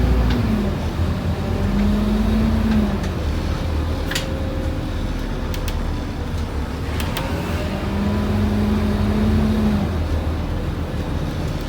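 Scania N230UD OmniCity bus's diesel engine running under way, heard from on board, with a steady low drone that comes in twice and a few sharp rattles.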